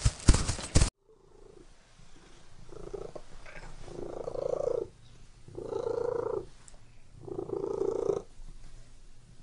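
Brown bears growling as they wrestle: four drawn-out, rough growls, each about a second long, coming a second or so apart. A brief burst of horse hoof clip-clop comes first.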